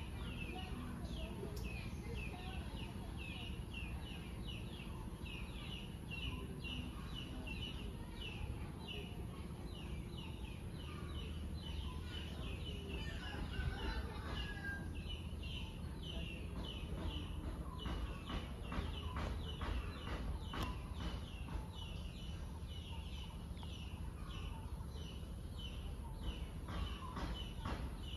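A bird calling in a fast, steady run of short high chirps, about three a second, over a low background rumble.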